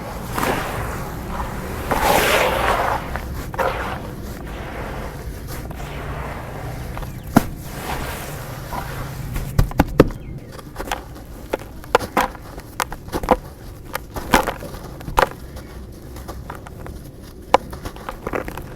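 Dry dirt chunks being crushed and crumbled, with a louder gritty rush about two seconds in. From about seven seconds on comes a run of sharp, separate cracks and knocks as pieces break.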